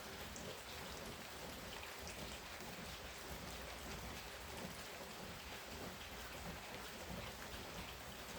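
Heavy rain pouring down steadily, a dense even hiss with many small drop ticks.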